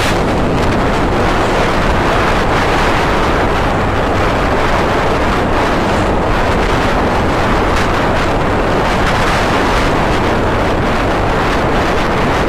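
Steady wind rush on the microphone from riding a motorcycle, with the bike's engine and road noise humming underneath.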